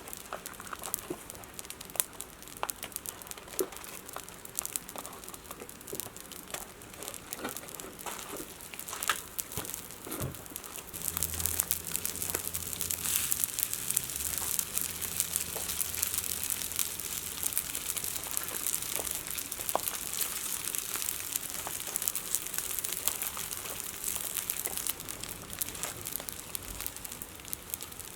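Wood fire crackling with many small irregular pops, its hiss growing louder about eleven seconds in. A low hum joins for a few seconds at the same time.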